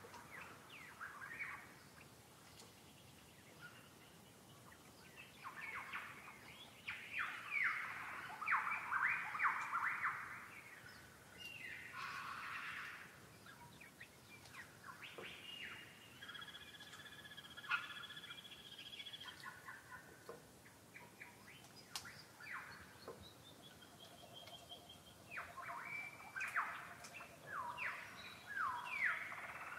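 Birds singing and chirping in bouts of quick, downward-sweeping notes, with a few held whistled tones near the middle.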